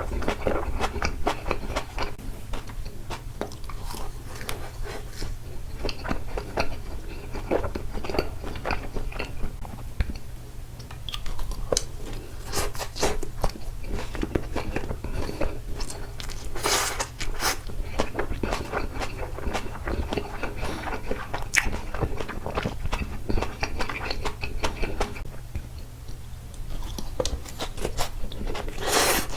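Close-miked chewing and biting of takoyaki: a dense, irregular run of small mouth clicks, with two louder sharp sounds about halfway through and at the end. A steady low hum sits underneath.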